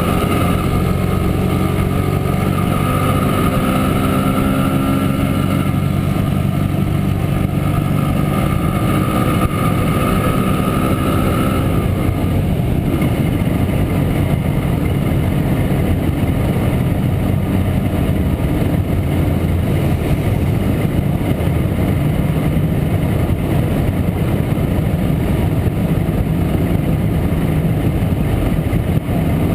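Montesa Impala Comando 175 cc two-stroke single-cylinder engine running steadily on the move, heard from on board. A higher steady tone sits over the engine note until about twelve seconds in, then stops.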